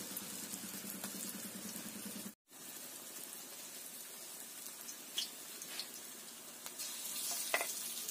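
Small fritters of gourd-leaf and bitter-gourd-leaf batter with ground lentils sizzling steadily in hot oil in a wok. The sound drops out briefly about two seconds in, and a few sharp clicks sound in the second half, the loudest near the end.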